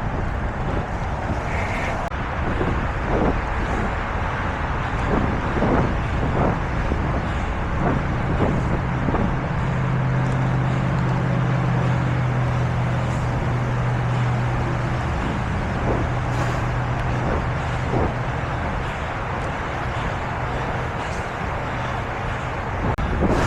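Road traffic noise over the rushing air of a moving bicycle, with a vehicle engine's low steady drone alongside for about ten seconds in the middle.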